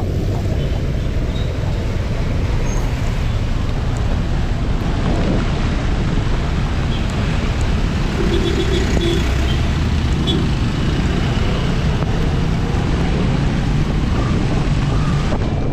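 Wind and road noise from a moving motorcycle ridden in typhoon rain, a steady heavy rush over its running engine, with passing traffic and a few short high tones about halfway through.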